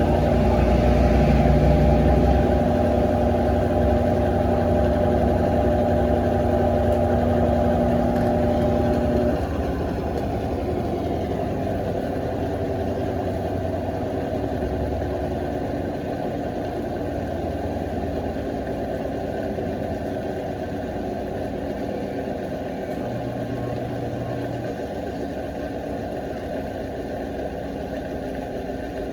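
Electrolux LF90 washing machine running its towel pre-wash. For about nine seconds there is a steady motor hum; then the hum stops and a lower, rougher running sound carries on and slowly fades as the pre-wash ends.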